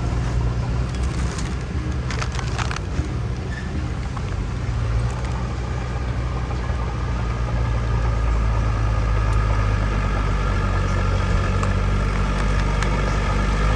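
Heavy diesel earthmoving machine's engine running steadily under load, with a few sharp clanks about two seconds in. The engine grows louder from about eight seconds in.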